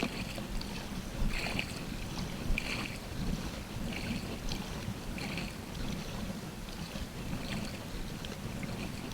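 Kayak paddle strokes in the water, a splash about every second and a half, over a low steady rumble of wind and water against the hull.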